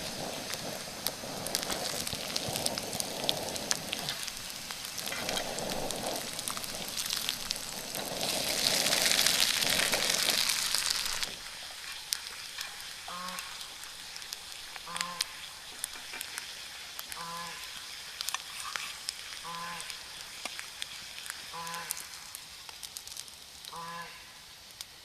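Food sizzling and crackling in a pan over a fire, with a louder hiss for about three seconds near the middle. After that the sizzle drops away and a short pitched animal call repeats about every two seconds.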